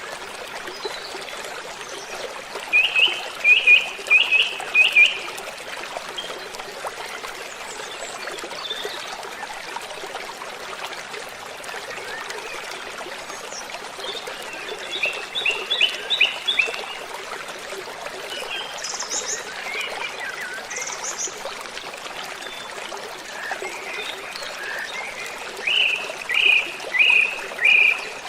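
Waterfall rushing steadily, with birds singing over it: a phrase of five or six quick chirps comes three times, about three seconds in, in the middle and near the end, with a few higher, thinner notes between.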